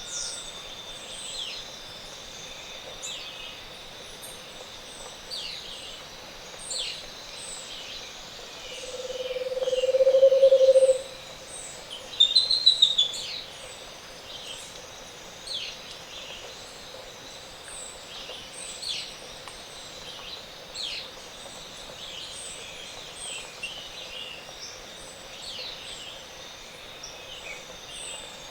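Cloud-forest dawn chorus: many small birds chirp high over a steady high insect tone. About nine seconds in, a low hollow trill swells in loudness for about two seconds and stops abruptly: a Scaled Antpitta's song. A second later comes a quick loud burst of high notes from another bird.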